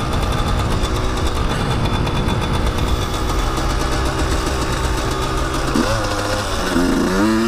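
Dirt bike engine running under way at fairly steady revs, then revving up twice in rising sweeps near the end.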